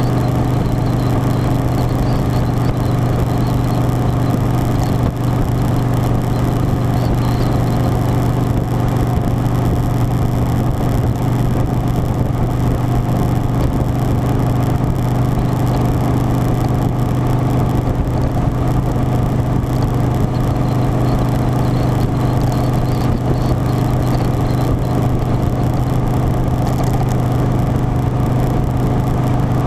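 Harley-Davidson Softail Standard's V-twin engine running at a steady speed, its low hum holding one pitch throughout, under a constant rush of noise.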